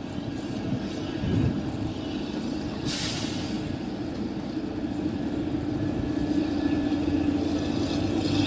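Kalka–Shimla narrow-gauge train running, its steady drone growing louder toward the end, with a short hiss about three seconds in.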